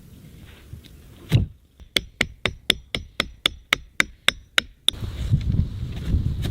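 Hammer blows: one heavy strike, then a quick, even run of about a dozen sharp ringing taps, roughly four a second. Near the end they stop and a low rumbling noise takes over.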